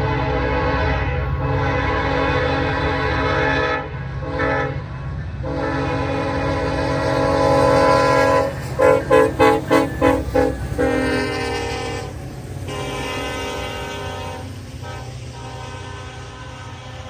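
Union Pacific freight locomotive's multi-note air horn sounding long blasts, then a string of about six quick toots, then fading. Underneath runs the steady low rumble of the passing locomotives and train.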